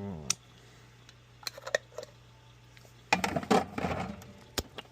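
Small kitchen containers and utensils being handled: scattered light clicks and knocks, with about a second of denser clattering noise a little after three seconds in.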